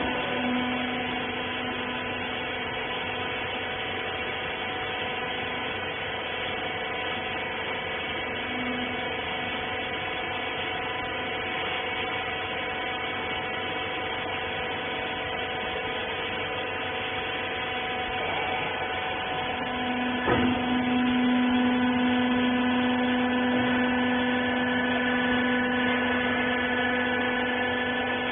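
Wiper horizontal bagging baler's electric motor and hydraulic pump running with a steady hum. About two-thirds of the way through a brief click comes, and the hum then grows louder.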